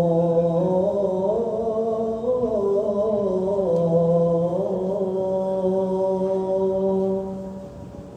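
A muezzin's male voice chanting the adhan: one long, melismatic held phrase with slow turns in pitch, which ends about seven and a half seconds in.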